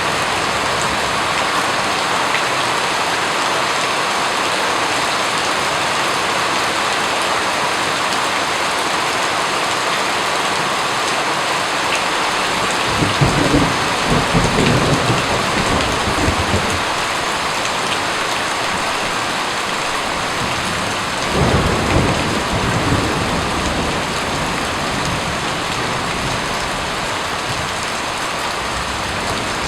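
Steady, even rain, with two low rolls of thunder: one about 13 seconds in that lasts a few seconds, and a shorter one about 21 seconds in.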